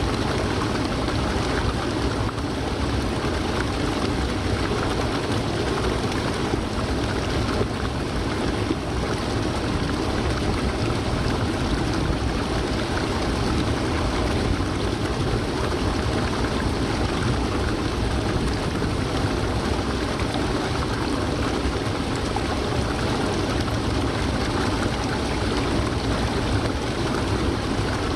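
Haruru Falls, a waterfall's water falling and rushing in a steady, unbroken roar.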